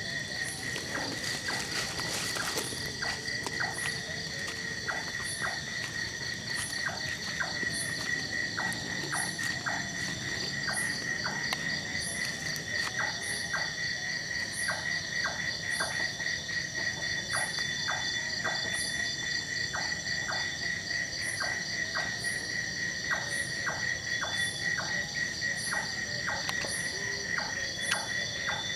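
Night chorus of insects: a steady high trilling with a pulsing buzz above it, a higher chirp repeating about once a second, and scattered short clicking calls.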